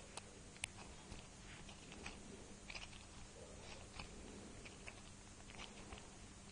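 Faint, scattered clicks and small crackles of a shotgun shell being handled and worked closed by hand, with two sharp clicks in the first second.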